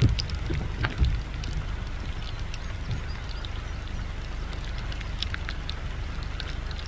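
Rain falling, with scattered drops ticking irregularly over a steady low rumble, and two louder knocks at the start and about a second in.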